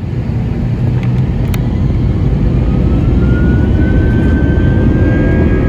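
Airbus A320's IAE V2527 turbofan engines spooling up for the takeoff roll, heard from inside the cabin: a loud, dense rumble with a thin whine that rises in pitch about two and a half seconds in, then holds steady. Two brief clicks sound in the first second and a half.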